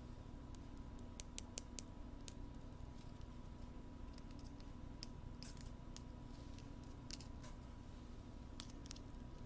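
Wooden ear pick scraping and tapping at a binaural microphone's ear, in short, sharp, irregular scratches and clicks, some in quick clusters, over a faint steady hum.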